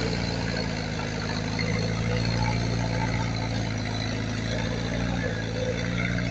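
Heavy earthmoving machine's diesel engine running steadily at a low, even speed, with a constant low drone and mechanical noise over it.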